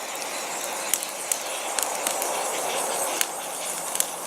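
A tall column of fire burning with a steady hiss, with scattered sharp crackles and pops.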